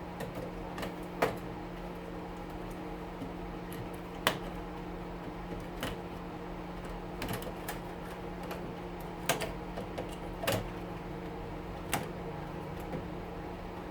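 Irregular sharp clicks and snaps of wire connectors being pulled off an oven's circuit board, over the steady hum of a stove exhaust fan.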